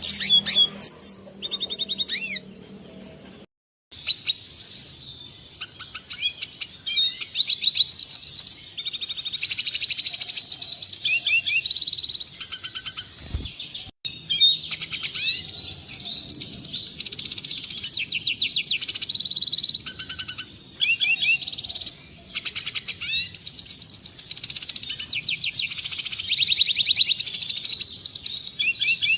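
Red siskin singing: a fast, continuous, high twittering warble of rapid trills and chips. It breaks off briefly once near the start, then runs on.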